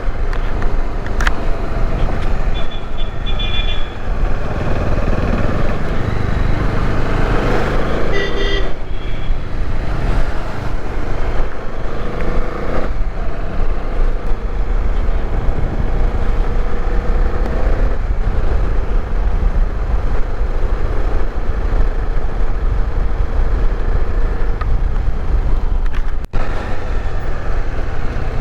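Bajaj Dominar 400 single-cylinder motorcycle running on the move, its engine mixed with heavy wind rush, with two brief horn toots, about three seconds in and again about eight seconds in.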